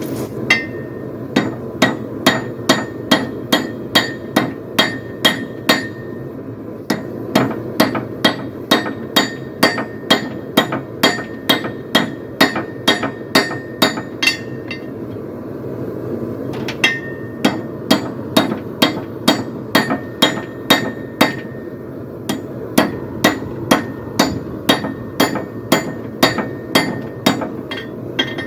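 Hand hammer striking hot steel on an anvil, about two blows a second, each blow ringing, while a poleaxe top spike is drawn out to a finer point. The hammering stops briefly about halfway through and again a little later, then resumes.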